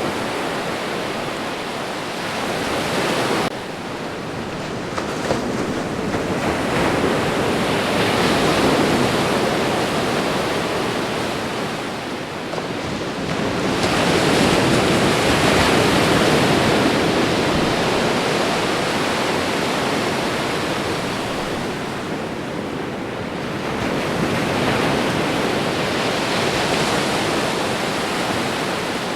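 Ocean surf: a continuous rush of waves breaking and washing in, swelling louder every several seconds and easing off between. There is an abrupt drop in level about three and a half seconds in.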